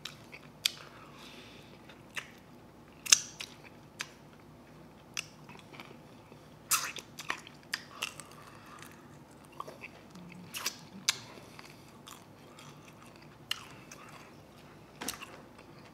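Close-miked eating of chicken wings: biting and chewing with sharp wet mouth clicks and smacks at irregular moments, about one or two a second, and sauce sucked off the fingers.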